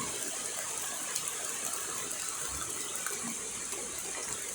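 Steady rain falling, an even hiss of water with no break.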